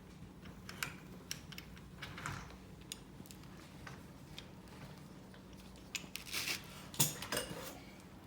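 Scattered light clicks and metal taps of hand tools being worked and handled, with a few louder scrapes or rattles near the end, over a faint steady low hum.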